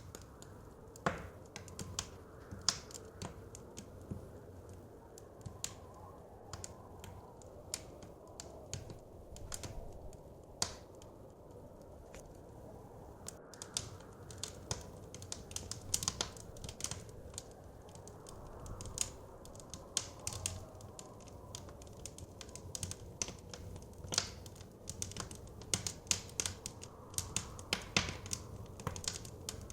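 Wood fire crackling, with irregular sharp pops and snaps that come thicker in the second half, over a steady low rush of blizzard wind that swells and fades slowly.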